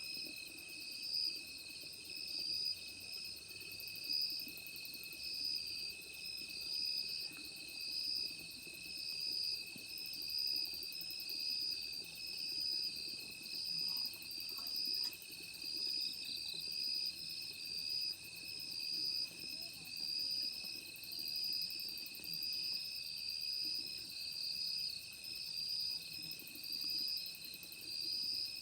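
Chorus of night insects such as crickets, a steady high trilling made of several pitches, one of them pulsing about once a second.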